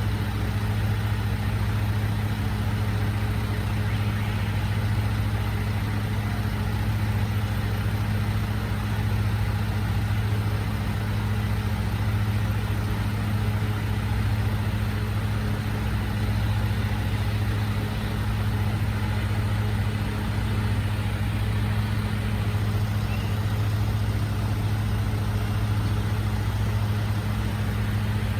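Recycling truck's engine idling steadily, a constant low hum with no revving.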